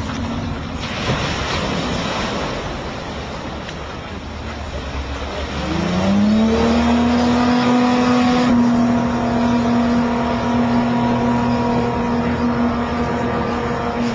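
A vehicle engine: a rushing noise at first, then about six seconds in the engine note rises and holds a steady pitch to the end, louder than before.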